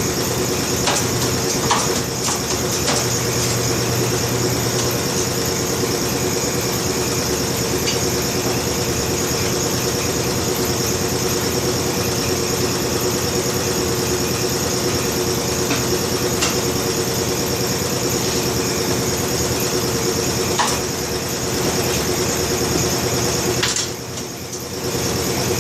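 A steady mechanical hum from a motor running in the tire shop, with a few scattered clicks and knocks from work on the tire and rim. The hum dips briefly near the end.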